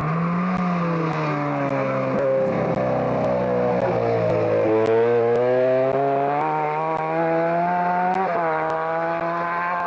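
Rally car engine running hard through a timed stage. The revs fall away for the first few seconds, then climb steadily, with a short break just after eight seconds, like a gear change, before rising again.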